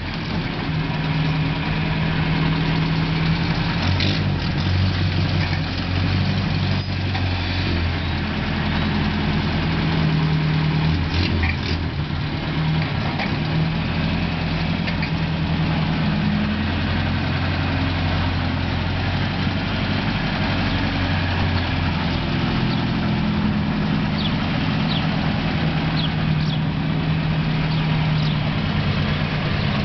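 The 1928 Renault's engine idling steadily, with a few light clicks over it.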